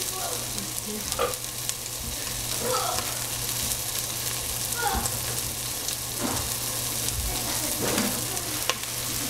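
Food sizzling in a hot pan while it is stirred, with a short scraping stroke every second or two over the steady sizzle.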